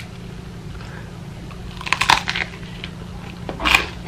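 Crunchy biting and chewing of a piece of baguette: a cluster of crisp crunches about two seconds in and another near the end, over a steady low hum.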